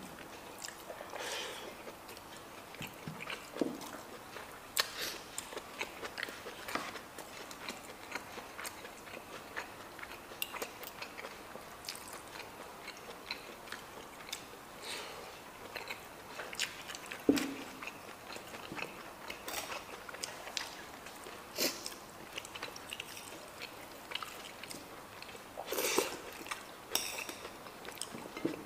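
Two people eating and chewing a stir-fry of baby corn with chicken gizzard and liver, with soft mouth noises and scattered small clicks and crunches, and a few louder knocks, one about seventeen seconds in and another near the end.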